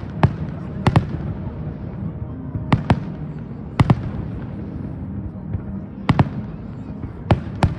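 Fireworks shells bursting overhead: sharp bangs that come mostly in quick pairs, about ten in all, over a steady background murmur.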